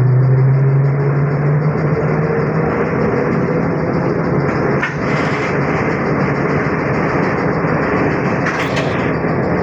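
ZiU-682G trolleybus running between stops, heard from inside: a steady rumble of motor and running gear, with a strong low hum that eases after about two seconds. Two short hisses come about halfway through and near the end.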